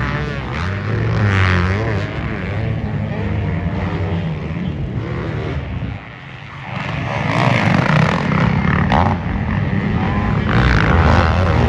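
Off-road racing engines on a motocross track, revving hard and changing pitch as they shift and pass. The sound dips briefly about six seconds in, then climbs again.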